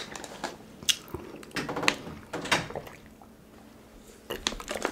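Eating sounds close to the microphone: chewing, with a few sharp clicks in the first half and a quieter pause near the end.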